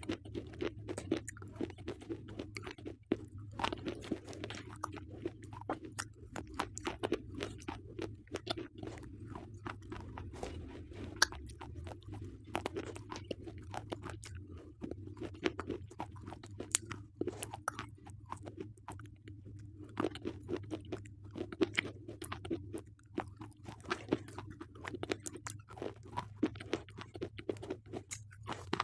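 Slate pencils being crunched and chewed close to the microphone: a continuous, irregular run of sharp crackling crunches.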